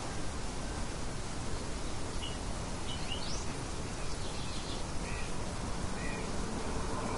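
Steady wind noise with short bird calls over it: a few rising chirps, then short calls repeated about once a second near the end.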